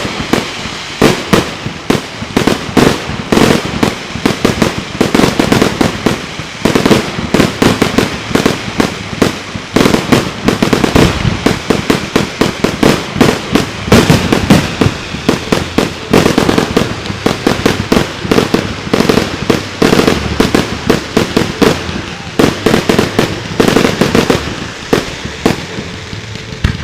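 Fireworks going off in a dense, rapid run of bangs and crackles, several reports a second, which drops away near the end.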